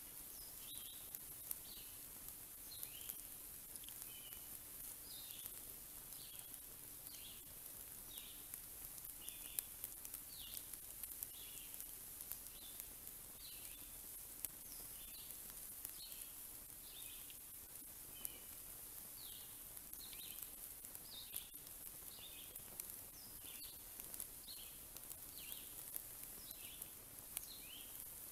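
A small bird calling a short chirp over and over, about twice a second, beside a wood fire crackling with a few sharp pops.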